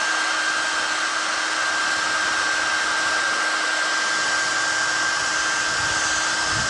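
Hotel hair dryer running steadily, a constant high whine over the rush of blown air.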